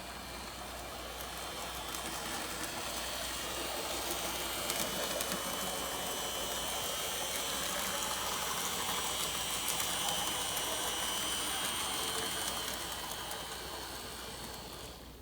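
N gauge model train running along the track: a steady small-motor whine with rolling rattle from the wheels and rails, growing louder and then fading near the end as it passes.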